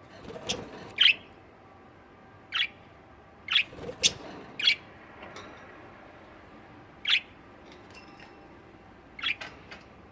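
Budgerigars giving short, sharp chirps and squawks, about eight separate calls spaced irregularly.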